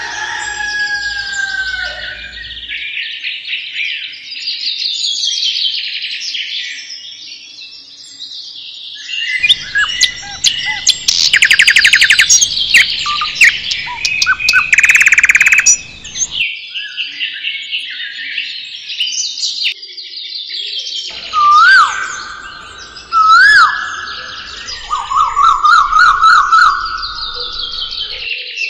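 Several birds chirping and singing at once. There are loud rapid trills in the middle and a few loud swooping whistled calls near the end.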